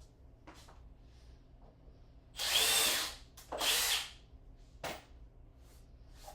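Power tool running in two short bursts, each just over half a second long and about a second apart, followed by a single sharp click.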